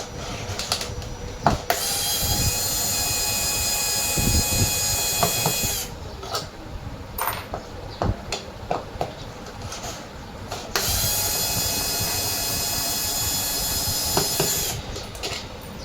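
Electric drill-driver running in two steady bursts of about four seconds each, with a whine, as fasteners are driven out of the machine. Between the bursts there are scattered clinks and knocks of metal parts.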